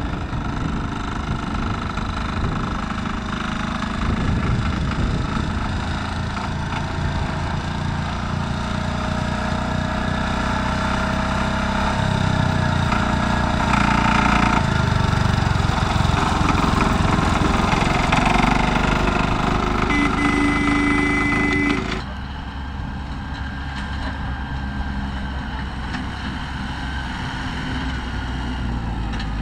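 Tractor engines running steadily, rising somewhat in the middle, with a brief steady tone for about two seconds before the sound cuts abruptly to a quieter engine running.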